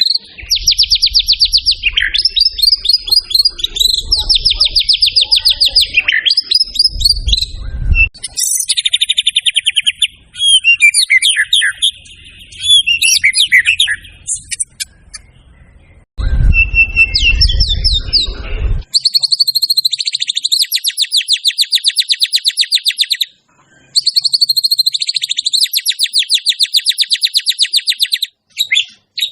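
White-rumped shama (murai batu) singing a loud, varied song of rapid trills and whistled phrases, with short pauses between phrases. A low rumble lies under the song in two stretches, near the start and about halfway through.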